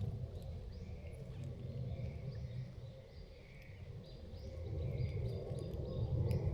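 Forest ambience: small birds giving short repeated chirps over a steady low rumble.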